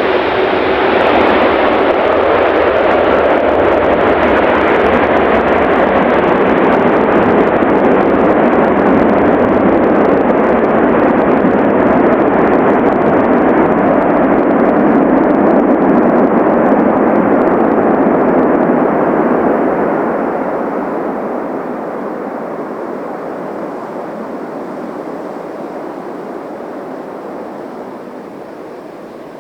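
Jet airliner's engines roaring loudly and steadily for about twenty seconds, then fading away over the last several seconds as the aircraft moves off down the runway.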